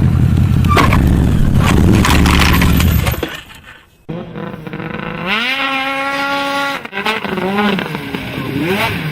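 Heavy low rumble of a motor vehicle on the road with a few sharp knocks. After a brief drop, an engine revs up, rises in pitch and holds at high revs, then falls off and wavers.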